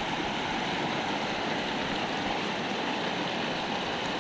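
Small mountain stream rushing steadily, an even, continuous sound of running water.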